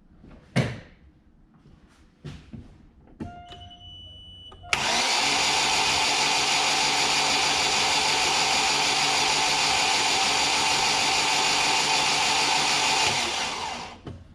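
Daewoo Lanos starter motor spinning the rebuilt engine over evenly for about nine seconds, without it firing, to pump oil pressure up through the new oil filter before the first start. The oil pressure climbs to about 6 and the pressure-relief valve opens. The cranking is preceded by a few clicks and a short beep.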